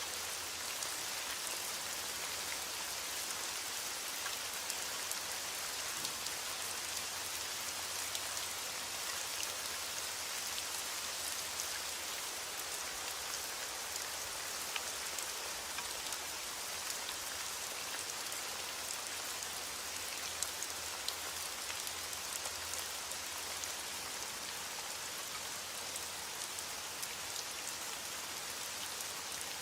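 Steady rainfall, a continuous hiss of rain with the fine pattering of individual drops striking a surface.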